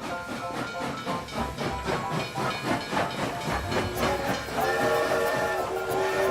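Steam locomotive sound effect: rhythmic hissing chuffs, then about three-quarters of the way in a multi-tone steam whistle blows and is held.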